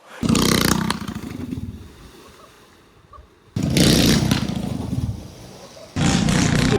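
Small minibike engine revving in three separate bursts, each starting abruptly and tailing off.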